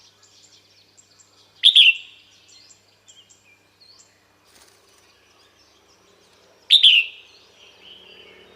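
Female red-whiskered bulbul calling: two loud calls about five seconds apart, each a sharp downward sweep that settles into a short held note, with faint quick chirps between them. This is the kind of female call used to draw a male in.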